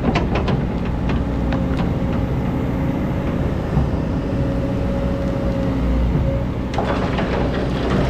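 Excavator's diesel engine running steadily, with a held whine over the drone. There are a few sharp clanks in the first second, and a gritty rattling of sand and stones starts near the end.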